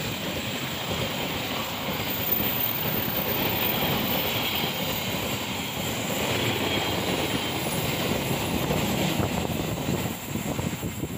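Passenger train's coaches rolling past close by: a steady rush of steel wheels on the rails, easing off a little near the end as the train pulls away.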